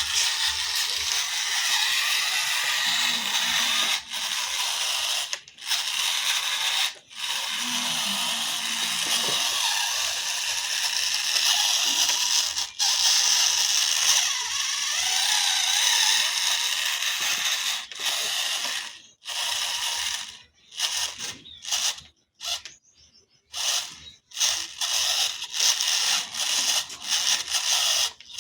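RC toy tractor's electric motor and gearbox whirring as it drives, with a few brief stops. In the last third it runs in many short stop-start bursts.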